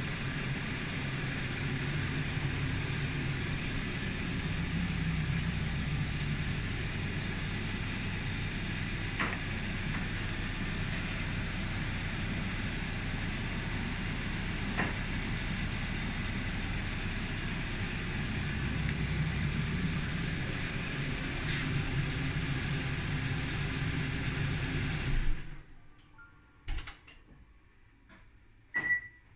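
Kia Optima's engine idling steadily, then shutting off abruptly about 25 seconds in as it is stopped remotely from a phone app. Two short clicks follow near the end.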